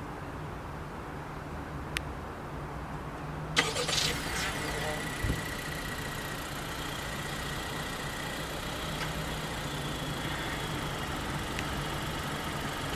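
2020 Honda CR-V's 1.5-litre turbocharged four-cylinder started by remote start: a click, then the engine catches suddenly about three and a half seconds in and settles into a steady idle.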